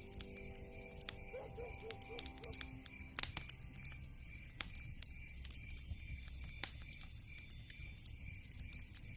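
Campfire crackling, with irregular sharp pops, the loudest a little over three seconds in and again past six seconds, over crickets chirping steadily. About a second and a half in comes a short run of five low calls from a night animal.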